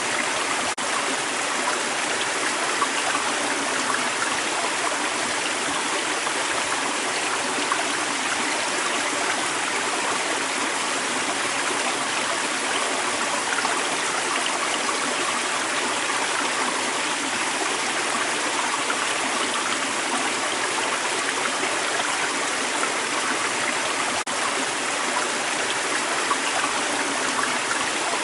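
A creek's water running and babbling over rocks in a steady, even rush.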